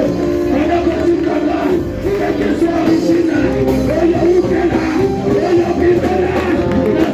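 Loud church worship music: a band playing with singing over it.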